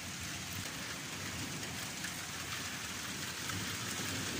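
Heavy thunderstorm downpour: rain pouring steadily, getting a little louder near the end.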